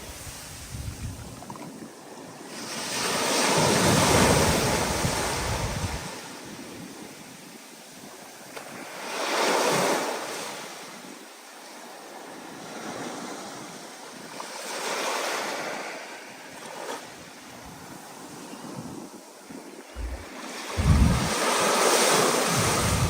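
Stormy ocean waves breaking and washing in, surging loudly about every five or six seconds, with wind gusts buffeting the microphone near the end.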